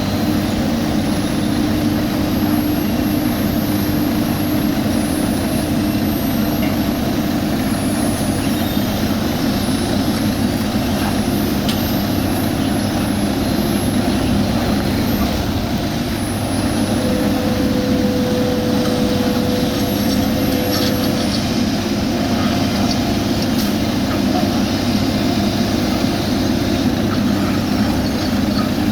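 Heavy diesel road-paving machinery running steadily, a continuous engine drone with no pauses. A faint whine rises above it for a few seconds midway.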